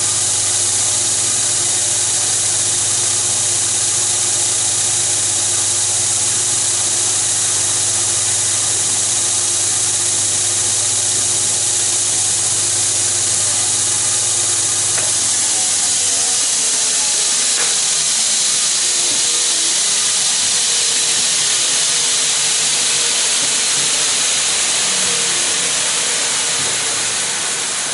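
Electric grinder working a knife, with a loud steady abrasive hiss over a running motor. About halfway through the motor's hum cuts out and its tones slide slowly lower as it winds down, while the hiss carries on and fades near the end.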